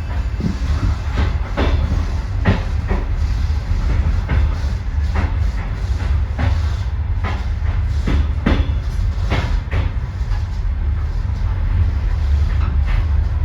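Passenger train rolling slowly: a steady low rumble with irregular, unevenly spaced clacks and knocks from the wheels over rail joints.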